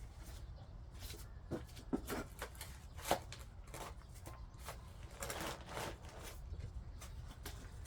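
Hand garden tool scraping and chopping into soil in irregular strokes, with a few sharper knocks about two and three seconds in and a denser patch of scraping a little past the middle.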